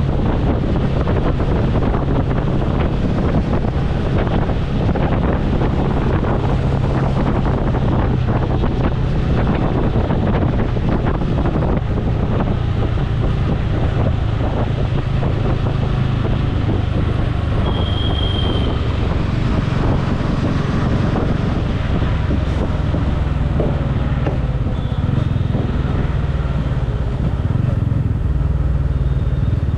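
Motorcycle engine running steadily while riding, with wind noise on the microphone. A brief high tone sounds about two-thirds of the way through.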